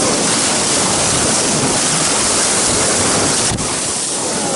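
Steady rush of whitewater on the Colorado River, loud and even, with a click about three and a half seconds in after which it is slightly quieter.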